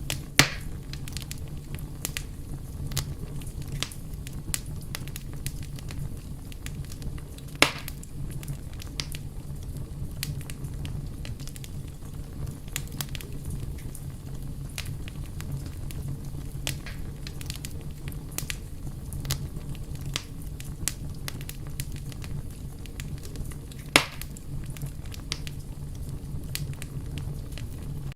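Fire crackling steadily over a low rumble, with many small scattered pops and three much louder sharp pops: one at the start, one a little over seven seconds in, and one near the end.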